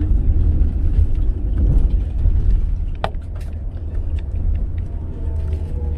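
Car driving on the road: a steady low rumble of engine and tyres, with a single sharp click about three seconds in.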